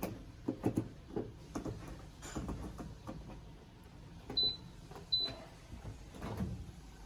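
Electrolux LPE16 washing machine being set up for a wash: a run of irregular clicks and knocks, then two short high beeps from its control panel a little under a second apart, about four and five seconds in.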